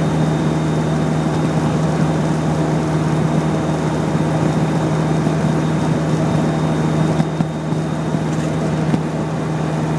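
Land Rover engine droning steadily at cruising speed on a motorway, with a strong low hum and road noise, heard from inside the cab.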